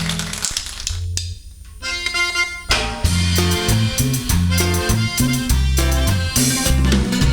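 Band playing cumbia tejana: after a short quieter passage, bass, drums and a melodic lead come in together about three seconds in and carry on at full strength.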